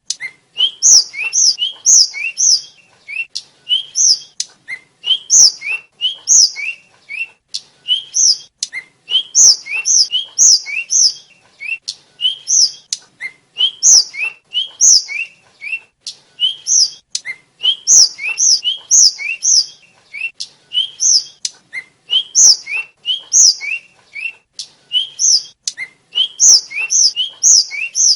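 Tledekan (sikatan, a blue flycatcher) singing: phrases of short, clear whistled notes, a few low slurred notes followed by brighter high ones, repeated every second or two.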